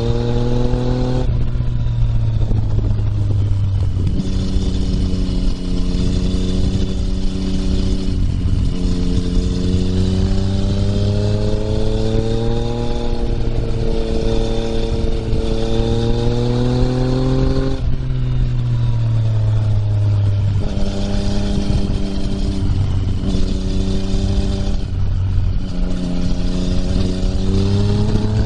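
Yamaha MT-09's three-cylinder engine running through an Akrapovič exhaust while riding: its note climbs steadily under throttle and drops back several times as it eases off and changes gear.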